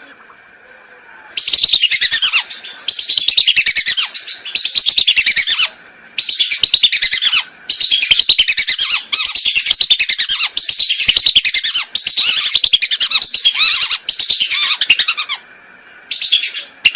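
Whistling ducks (belibis) calling: about a dozen bursts of rapid, high whistled notes, each a second or so long, with short pauses between. Each note sweeps downward.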